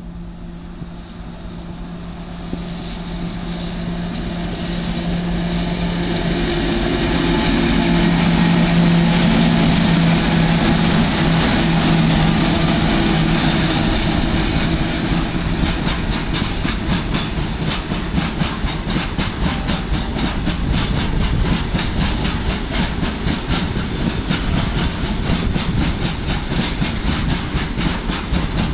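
Goods train passing close by. The steady hum of two WAG-7 electric locomotives grows louder over the first several seconds. From about halfway, a rapid clickety-clack of the open box wagons' wheels over the rail joints follows.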